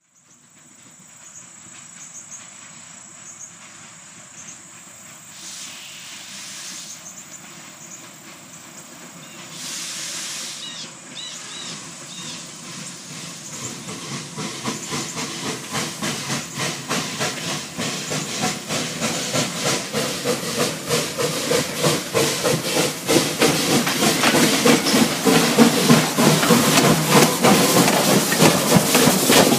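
Two short bursts of hissing, then a rhythmic mechanical clattering that grows steadily louder through the second half.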